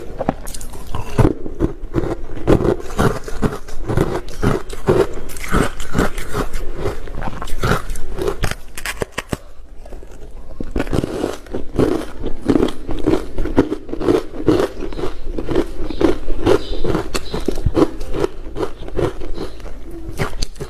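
Close-up chewing of crunchy ice, a fast run of crisp crunching bites with a short pause a little before the middle.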